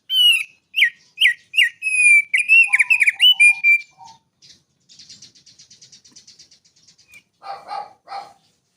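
Songbird singing: first a quick series of loud, clear whistled notes, most sweeping downward in pitch. Then comes a faint, rapid, buzzy high trill, and near the end two short, harsher notes.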